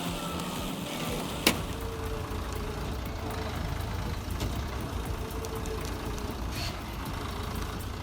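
A heavy vehicle's engine running with a steady low rumble. There is a single sharp click about a second and a half in, and a faint steady whine comes and goes.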